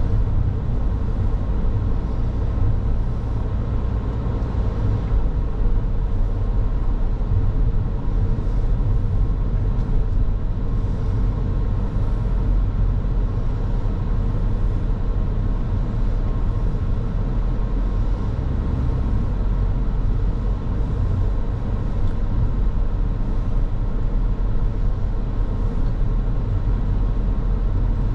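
A car driving at a steady pace: a continuous low rumble of engine and tyres on the road, with no marked changes.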